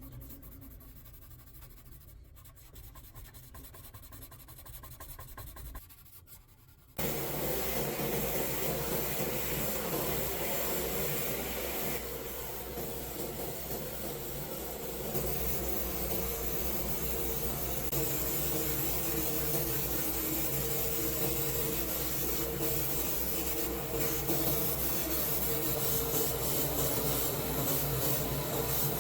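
Abrasive rubbing and sanding on rusty metal, faint and scratchy at first. About seven seconds in it jumps to a much louder, steady grinding noise with a steady hum under it.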